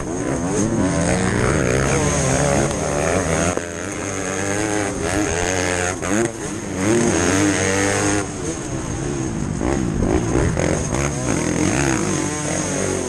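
Yamaha YZ250 two-stroke single-cylinder engine revving hard under way, its pitch climbing and dropping over and over as the throttle is opened, closed and the gears are shifted, heard from the rider's helmet camera.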